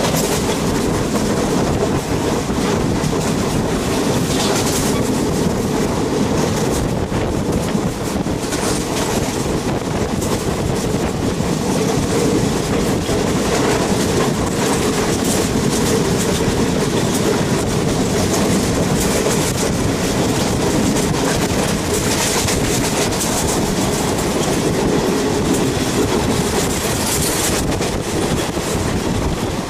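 Train running along the track with a steady loud rumble that does not let up.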